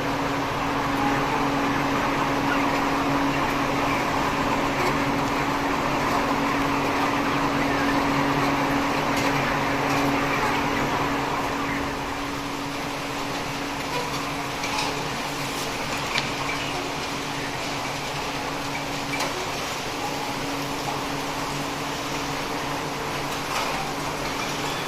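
A steady machine hum with a constant low drone, easing slightly about twelve seconds in, with a few faint clicks later on.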